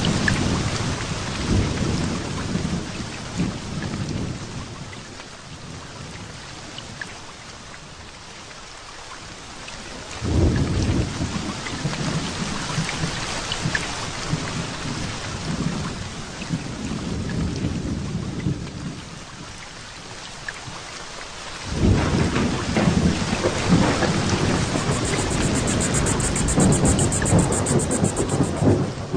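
Heavy rain falling steadily through a thunderstorm, with rolling thunder. A rumble dies away over the first few seconds, a new one rolls in about a third of the way through, and a louder one breaks in about two-thirds of the way through and keeps rumbling.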